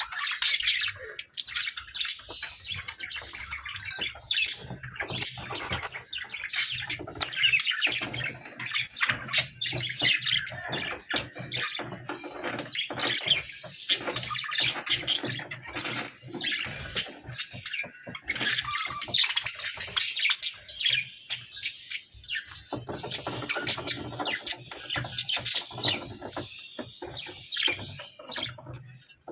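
Budgerigars chirping and chattering, many quick squawks and tweets overlapping without a break.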